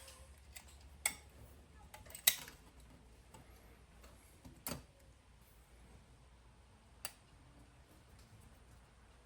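Four sharp, separate clicks and taps of small car-radio parts (circuit boards, plastic bezel) being handled and set down on a work surface, the loudest a little over two seconds in.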